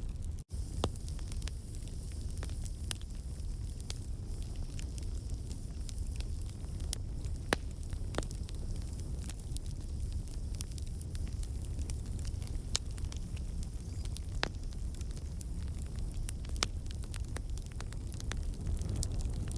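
Campfire of burning wood logs crackling, with irregular sharp pops over a steady low rumble of the flames. The sound cuts out for an instant about half a second in.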